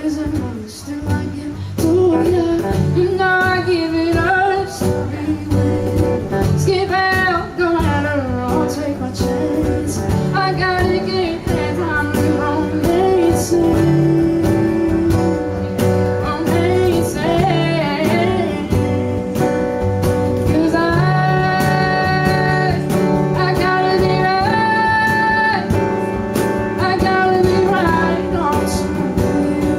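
Live country song: a woman singing over guitar and cajon.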